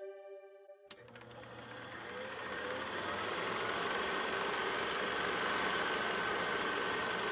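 A sustained music tone dies away, then after an abrupt cut a steady machine-like whirring noise fades in over a couple of seconds and holds, with a low hum beneath it.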